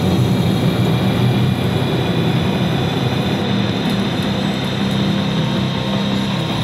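Double-stack intermodal freight train passing close by, a steady loud rumble of steel wheels rolling on the rails.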